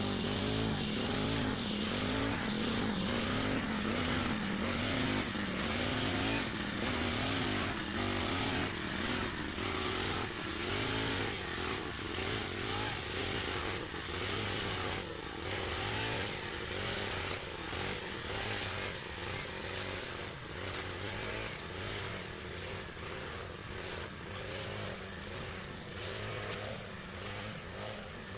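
An engine running steadily, its pitch wavering up and down in the first half, then settling and getting a little quieter.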